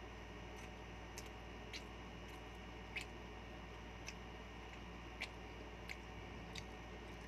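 Faint, irregular wet mouth clicks and lip smacks of someone chewing a mouthful of rice and meat, roughly one a second, over a steady low hum.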